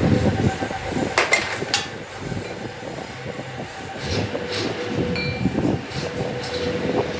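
Heavy machinery rumbling steadily, with two sharp metal clanks about a second in and a short high beep about five seconds in.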